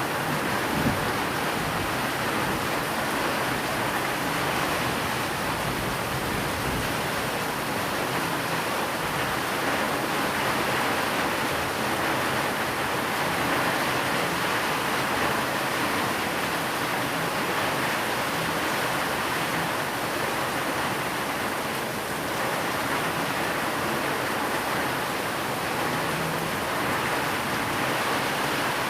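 Steady rain falling: a continuous, even hiss with no breaks or thunder.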